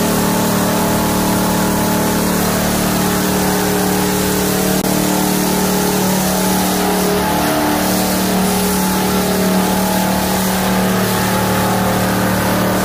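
A turbocharged LS V8 engine runs loud and steady on an engine dyno, held at one constant speed. Its turbo and exhaust manifolds glow red-hot, the sign of a sustained heavy load.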